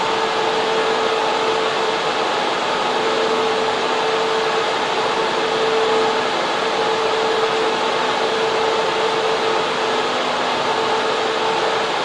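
Data center server room with its cooling fans and air handling running: a loud, steady rush of air with a hum that briefly drops out a few times.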